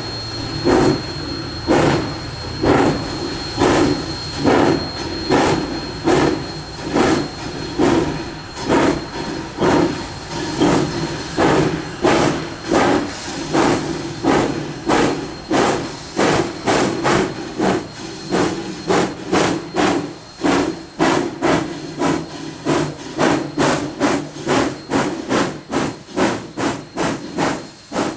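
Narrow-gauge steam locomotive's exhaust chuffing as it works, the beats speeding up from about one a second to about two a second.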